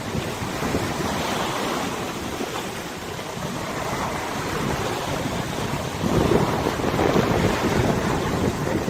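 Wind buffeting the microphone over river water washing and lapping, as a steady rushing noise that swells stronger in a gust about six seconds in.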